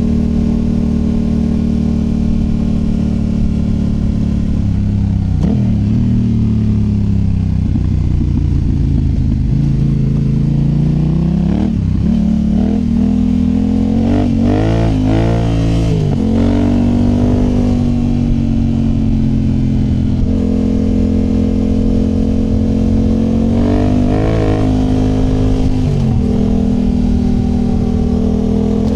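Yamaha Tenere 700's 689 cc parallel-twin engine through a MIVV Dakar high-mount exhaust, picked up close to the silencer while riding. The engine speed keeps rising and falling as the throttle is worked, with several sudden drops in pitch and quick flurries of blips around the middle and again near the end.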